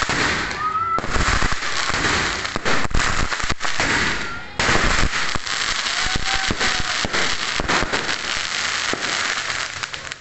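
Dragon Fireworks 'Sword of Valor' 16-shot cake firing its finale: dense crackling and popping of bursting shells, with a brief rising whistle under a second in. It thins out near the end.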